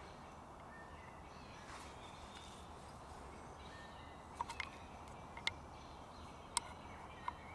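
Quiet woodland background with faint bird calls, and a handful of short, sharp clicks in the second half, about five, unevenly spaced.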